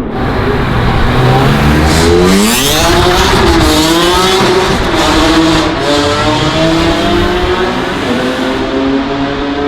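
A high-performance car engine revving hard as a car accelerates away: its pitch climbs steeply about two seconds in, then rises and falls as the car pulls off.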